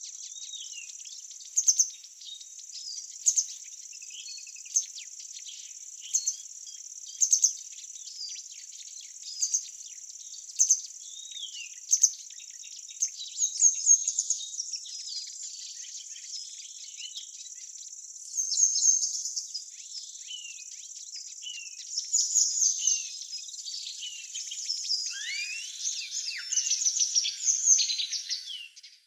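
Birdsong over a steady, high-pitched insect drone. A bird repeats a short, loud call about every second and a half for the first dozen seconds, then livelier, more varied song follows with several birds chirping.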